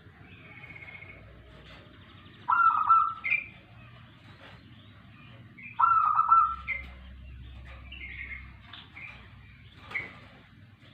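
Local perkutut (zebra dove) singing: two loud cooing phrases, one about two and a half seconds in and another about three seconds later, with fainter, higher chirps scattered between them.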